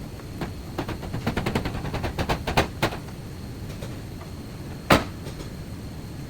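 A quick run of sharp knocks for about two seconds, then one louder single knock, over a steady low background hum, like blows and impacts on a car body in a repair shop.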